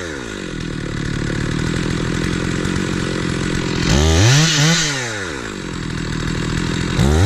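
Two-stroke chainsaw dropping from full revs to idle, then idling with two short blips of the throttle that rise and fall back, one about four seconds in and one near the end.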